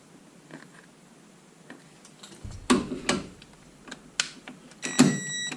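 Metal tools clinking and knocking as they are handled during work on car suspension parts, with a few sharp knocks about two and a half to three seconds in and a ringing metallic clink near the end.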